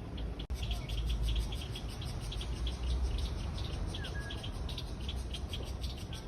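Outdoor nature ambience: short high chirps repeating steadily several times a second, over a low rumble. There is a brief dropout about half a second in.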